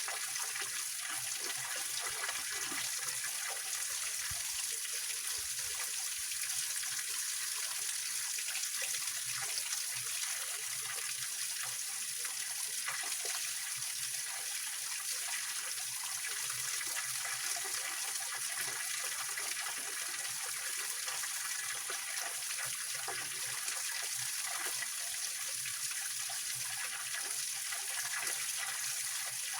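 Small waterfall and mountain stream running over rocks: a steady splashing rush of water, bright and hissy, with no change in level.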